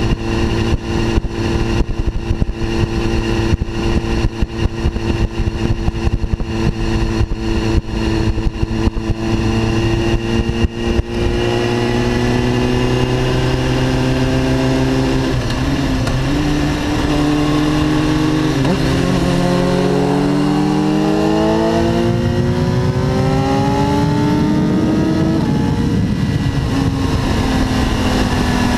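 Inline-four sport bike engine running at road speed, with wind buffeting the microphone for the first ten seconds or so. Later the engine note climbs steadily for about five seconds as the bike accelerates, then drops back and holds steady.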